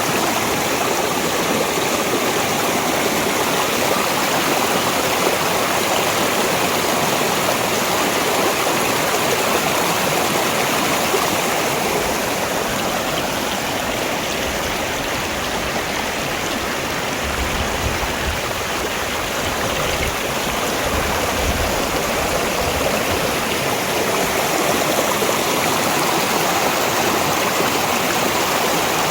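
Mountain valley stream running over rocks, a steady rushing of water.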